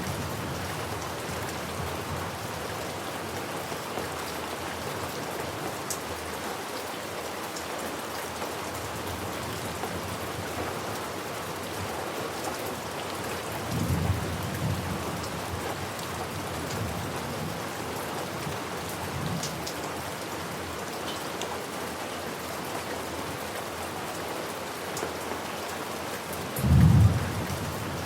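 Steady heavy rain falling, with low rolls of thunder: a softer one about halfway through and a loud, short one near the end.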